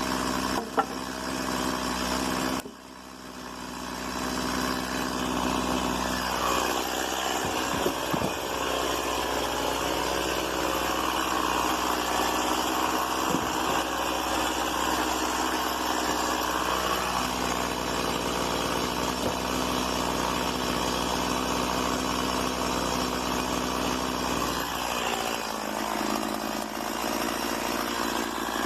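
Stihl MS 170 two-stroke chainsaw engine idling steadily, with a brief dip in loudness about three seconds in and slight wavers in pitch.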